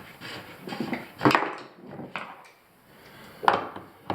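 Faucet cartridge parts clicking and knocking as they are handled and fitted by hand, with two sharper knocks, about a second in and near the end.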